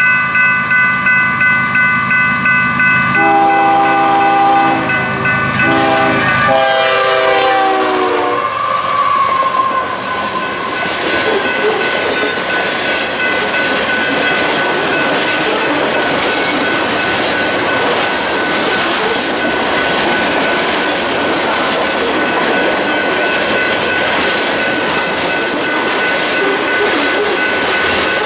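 Grade crossing bell ringing about twice a second, then a diesel locomotive horn sounds the crossing signal: two long blasts, a short one and a final long one that drops slightly in pitch as it passes. Then the train rolls by with steady wheel-on-rail noise and some clickety-clack.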